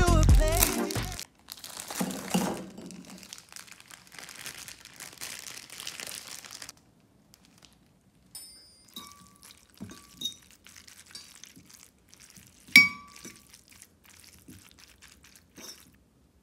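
Background music cuts off about a second in, followed by a few seconds of rustling, then scattered light clicks and small ringing clinks, the loudest near the end.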